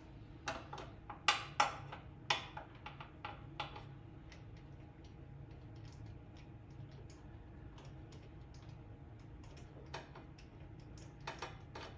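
Irregular sharp clicks and light metallic taps from hand tools and small engine parts being handled. They come thick over the first few seconds, thin out, then return briefly near the end, over a steady low hum.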